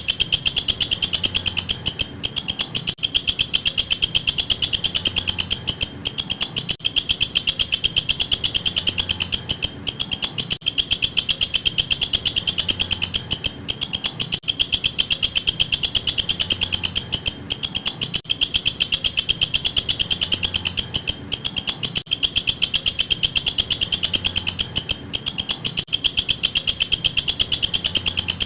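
Walang kecek, a bush cricket, calling: a loud, high-pitched buzzing trill of very fast pulses, broken by a brief pause every three to four seconds.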